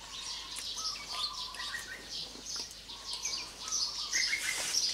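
Birds chirping and calling in the background: a busy mix of short, high chirps and whistled notes.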